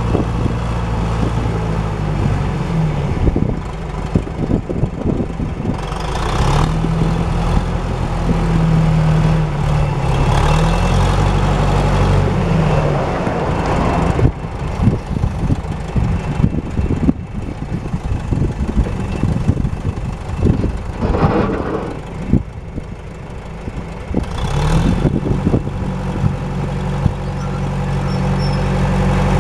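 John Deere JD500 Series-B loader backhoe's engine running, its pitch going up and down several times as it is revved, with knocks and rattles through the middle stretch.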